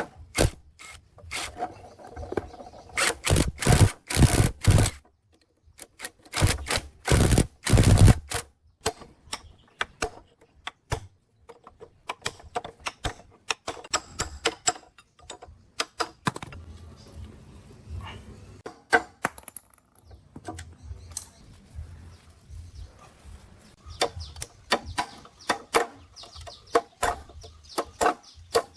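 Irregular tapping and knocking, with two longer scraping passes a few seconds in and again about seven seconds in.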